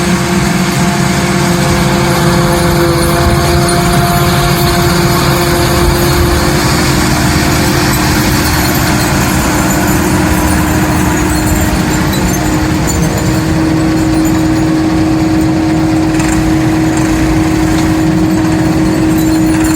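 The engine of a silage-cutting machine harvesting maize fodder, running steadily with an even drone.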